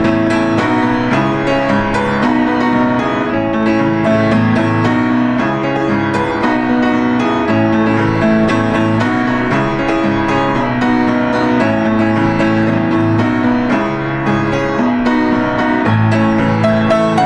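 Piano music: notes struck in a steady, flowing pattern over held lower chords.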